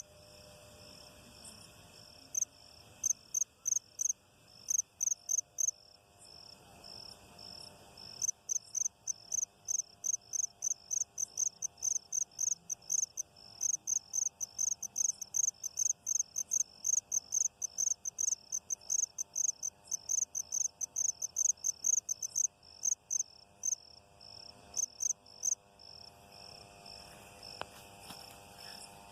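Insects calling: a steady high-pitched trill, over which loud, sharp chirps repeat at about three a second. The chirps come in short runs at first, then a long unbroken run, then grow sporadic and stop a few seconds before the end.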